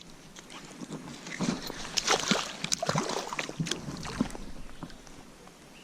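Water splashing and sloshing with scattered clicks and rustles, busiest from about a second and a half to four and a half seconds in.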